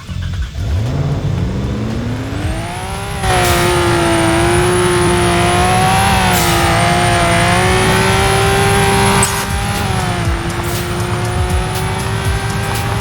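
A car engine revving up over about three seconds, then held at high revs with a steady, slightly wavering note, with a thin high whine above it. It eases off a little about nine seconds in.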